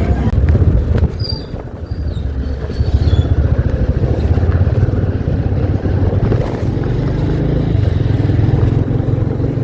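A motor vehicle's engine running steadily with road noise.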